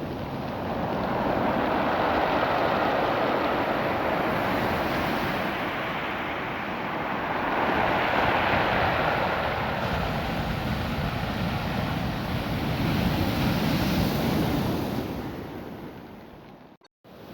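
Ocean surf washing over a beach of small rounded stones, the water and rolling cobbles making a rushing hiss that swells with each wave about every five or six seconds. The sound drops out abruptly for a moment near the end.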